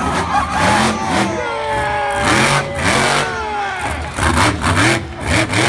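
Monster truck engine revving hard in repeated bursts, its pitch rising and falling again and again.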